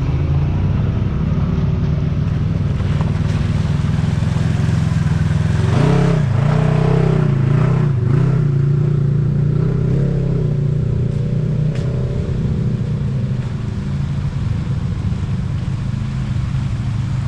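Side-by-side UTV engine running steadily while driving a trail, with a stretch in the middle where the engine pitch rises and falls as the driver gets on and off the throttle.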